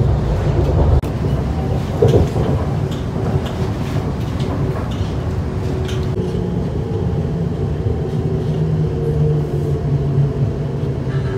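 Inside a moving TfL Rail passenger train, the carriage gives a steady rumble of the train running on the track. From about halfway through, a low motor hum joins in.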